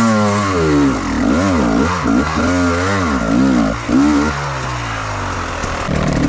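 Enduro motorcycle engine revving in a series of quick throttle blips, its pitch rising and falling about five times, then settling to a steadier, lower run near the end.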